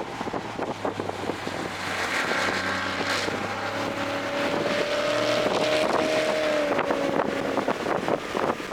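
Toyota GR Corolla's turbocharged 1.6-litre three-cylinder engine running at speed with wind noise. Its drone builds from about two seconds in, rises a little in pitch, then eases off near the end.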